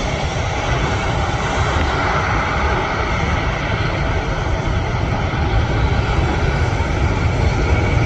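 Jet airliner engines heard from close by as the aircraft moves on or over the runway: a steady loud rush with a strong low rumble, growing slightly louder near the end.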